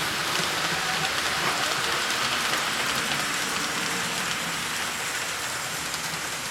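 HO-scale model trains running on the layout's track: a steady rolling hiss of small metal wheels on rail and locomotive motors.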